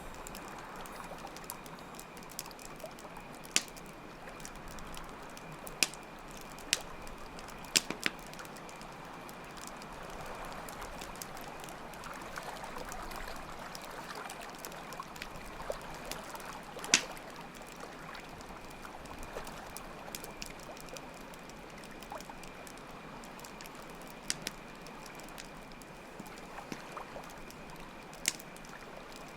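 Campfire crackling, with sharp pops scattered irregularly over steadily trickling water and a continuous high cricket trill.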